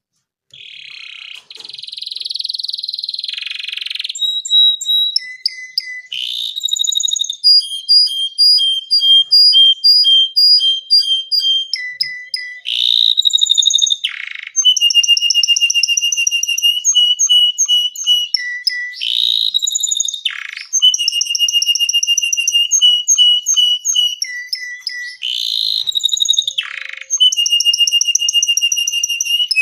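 Domestic canary singing a long, unbroken song: runs of rapid repeated notes, each run held on one pitch for a few seconds, broken every few seconds by a loud sweeping note.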